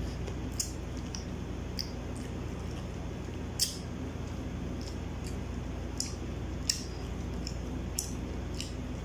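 Mouth sounds of someone chewing barbecued chicken: short, wet clicks and smacks about once a second, the sharpest about three and a half seconds in, over a steady low hum.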